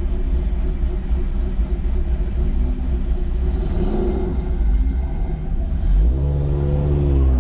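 Car engine driven hard on a race track, over a heavy steady rumble of road and wind noise. The engine note rises and falls about midway, then swells again near the end, climbing and easing off.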